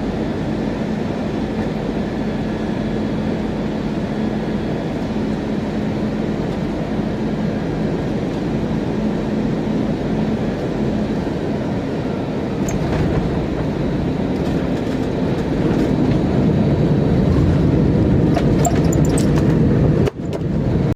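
Steady rumble and roar of an Airbus A321-200 heard from inside the cabin, with light rattling clicks in the second half. The roar grows louder over the last few seconds and cuts out briefly near the end.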